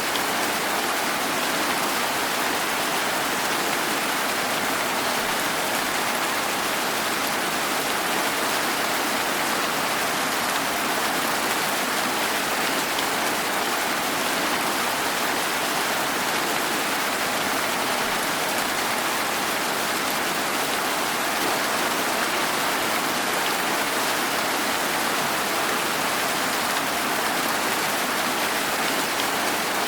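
Steady rain falling, an even hiss of many drops with no breaks or single impacts standing out.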